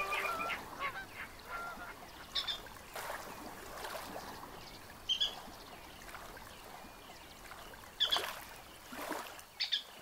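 A few short bird calls, a few seconds apart, over a faint even background. The last notes of the music die away just at the start.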